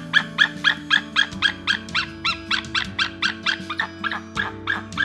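An animal giving a rapid series of short, high-pitched calls, about four a second, over background music with sustained chords.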